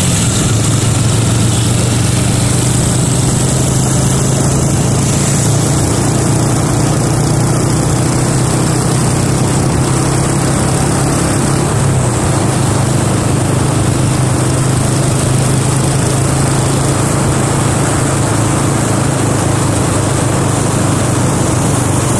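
Motorcycle engine running at a steady pitch, with a rushing haze over it.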